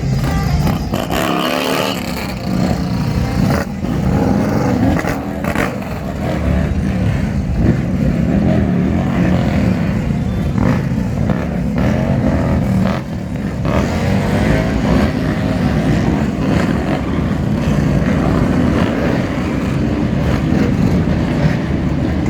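Motor vehicle engines running with a steady low rumble, with a few short clicks over it.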